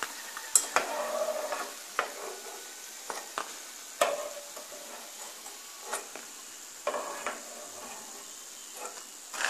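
Nimki pieces sizzling softly in hot oil in a kadai on a low flame, with a metal ladle clinking and scraping against the pan about once a second as the fried pieces are lifted out.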